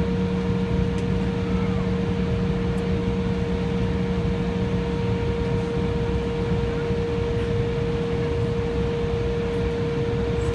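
Steady hum and rush of an Embraer 175 airliner with a constant mid-pitched tone; a lower drone fades out about halfway.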